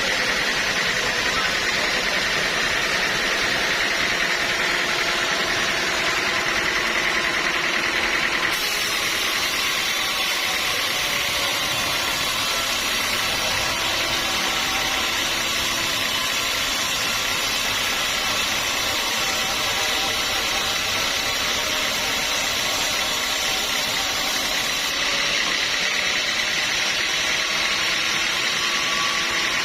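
Sawmill machinery running steadily with a continuous mechanical drone. The sound changes abruptly about a third of the way in, with more hiss, and changes back near the end.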